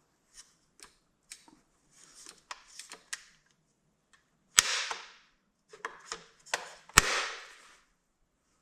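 Plastic controls of a DeWalt 20V cordless chainsaw being worked by hand: a series of light clicks, then two loud sharp snaps about two and a half seconds apart, each with a short rattling tail. The motor is not running.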